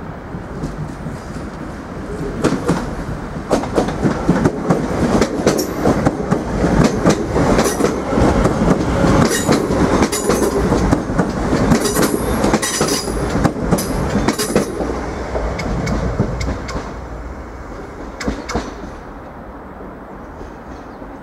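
Irish Rail DART 8100/8300-class electric multiple unit pulling away over pointwork, its wheels clattering over rail joints and crossings in a quick, irregular run of clicks. It grows louder a couple of seconds in, stays loud for about fourteen seconds, then fades as the train draws away.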